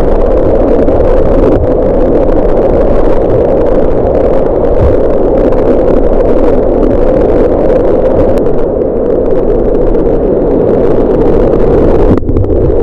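Rushing white water, loud and steady, with a low rumble beneath it; it breaks off briefly near the end.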